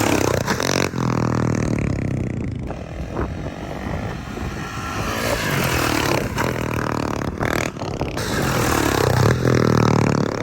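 Dirt bike engine revving hard and easing off as the bike is ridden up to and over a jump, the pitch climbing under throttle and dropping back, with another strong run near the end.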